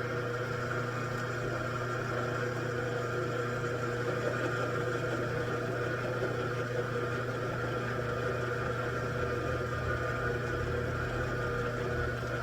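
Metalworking machine tool running steadily: a constant motor hum with a steady higher whine, unchanged throughout.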